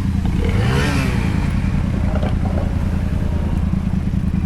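Motorcycle engine idling steadily, with a short rise in revs about a second in.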